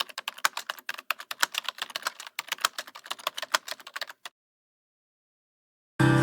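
A fast, irregular run of sharp clicks, several a second, that stops abruptly about four seconds in. After a stretch of dead silence, a band starts playing with strummed guitar just before the end.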